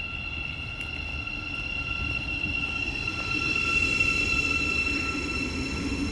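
Electric multiple-unit train at a station platform: a steady high-pitched whine over low rumble that grows louder through the second half.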